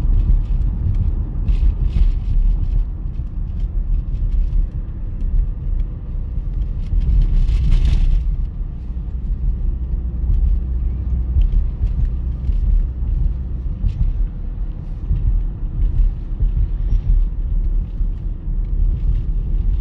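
Freight train rolling past: a steady low rumble, with a brief hiss about eight seconds in.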